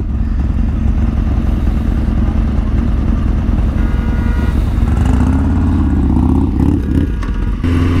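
Motorcycle engine running under way, with wind rush on the helmet microphone; the engine note climbs a little about five to six seconds in as the revs rise.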